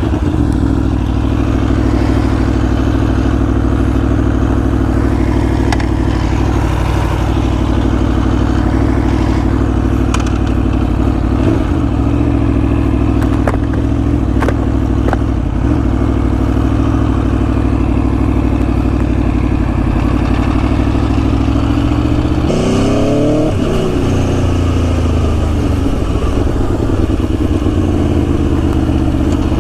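Aprilia Tuono V4 1100's V4 engine running steadily at idle through its exhaust, with one short blip of the throttle that rises and falls about three quarters of the way through.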